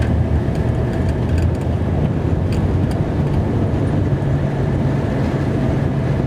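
Plow truck's engine and drivetrain running under load through snow drifts, a steady low rumble heard from inside the cab.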